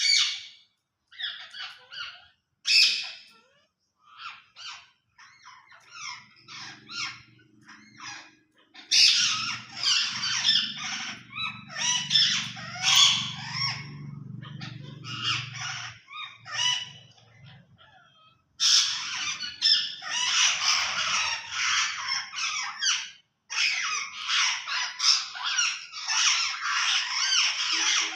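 Parrot squawking and chattering in rapid, high-pitched bursts. The calling is scattered at first, then runs in two long, dense stretches, one in the middle and one through the last third.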